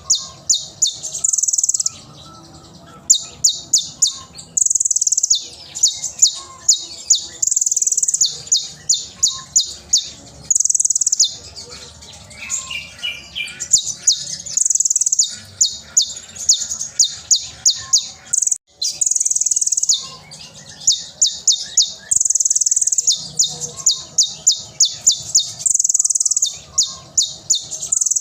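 A kolibri ninja sunbird (konin) singing loud and high: fast runs of sharp separate notes (the keepers' 'tembakan') alternate with short dense trills of under a second, over and over.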